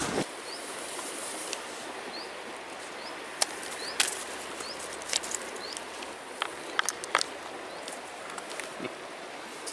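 Steady background hiss with several short rising bird chirps in the first five seconds. Over it come a few sharp clicks of small pebbles knocking on wood and stone as they are set into a hollowed-out piece of dead wood.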